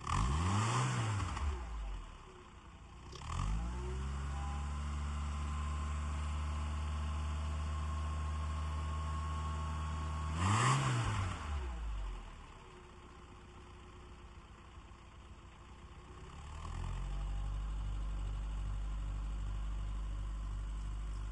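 Car engine revved twice with short throttle blips, each rising and falling in pitch, about ten seconds apart, with the engine running at a steady pitch between them.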